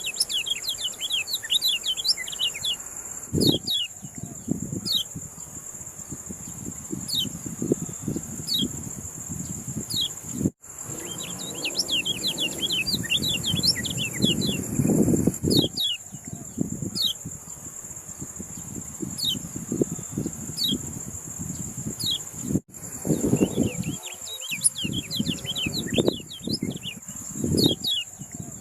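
Kecial kuning songbird singing: rapid clusters of high, quickly falling chirps over a steady high insect whine, with low rumbling noise underneath. The audio cuts out for an instant twice, at edit joins.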